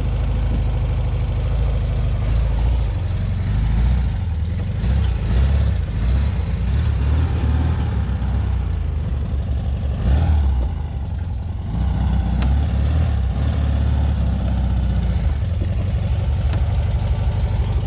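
1967 VW Beetle's air-cooled flat-four running while the car is driven, still cold from a cold start. The engine speed rises and falls, with a short drop around the middle.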